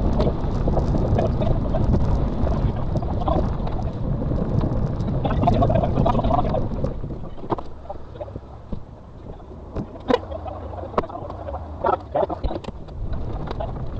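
Suzuki Carry kei truck's 660cc engine heard from inside the cab, running hard for about the first half, then settling to a quieter, steady low running. Several sharp knocks and rattles come through in the second half as the truck works over rough ground.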